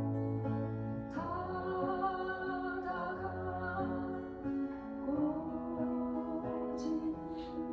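A slow sung ballad: a singer holds long notes, moving to a new note about a second in and again around five seconds in, over acoustic guitar accompaniment.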